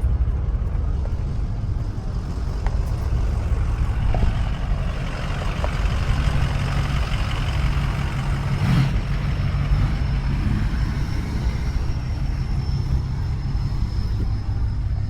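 Truck engine running with a steady low rumble, with a single sharp knock about nine seconds in.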